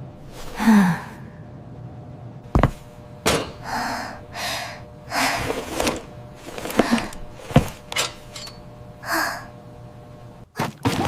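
A string of short, breathy gasps and sighs, with a few sharp knocks between them.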